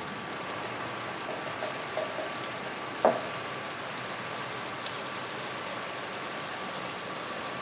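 Yogurt masala frying with a low, steady sizzle in a nonstick pot, stirred with a slotted spoon. A single knock about three seconds in as the spoon is set against the pot, and a light clink near five seconds.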